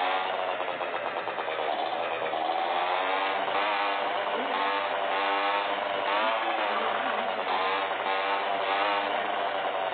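Motocross motorcycle engines running and revving, their pitch rising and falling over and over.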